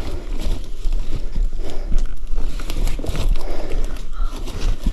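Close rustling, scraping and knocking with a low rumble on the microphone, the handling noise of a hiker clambering through a narrow squeeze between boulders.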